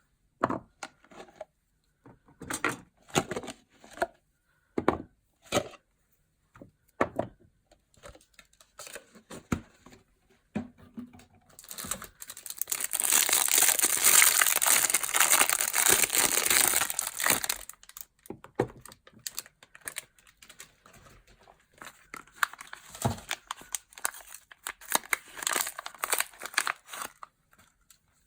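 Soap packaging being unwrapped: scattered crackles and handling taps, then about six seconds of loud continuous crinkling and tearing of the wrapping around the middle, and more bursts of crinkling near the end.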